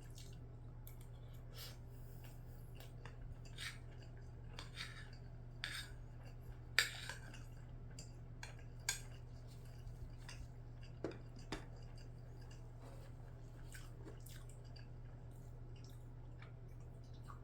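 Eating utensils clinking and scraping against a dish, with soft chewing, in a scattering of sharp clicks; the loudest clink comes about seven seconds in, and the last few seconds hold only a steady low hum.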